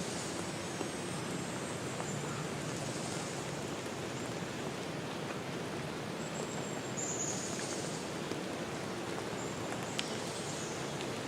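Forest nature ambience: a steady rushing hiss, with a few short high chirps about six, seven and ten seconds in.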